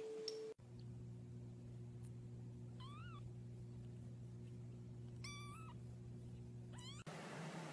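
A very young kitten mewing three times, short high-pitched mews that bend in pitch, over a steady low hum.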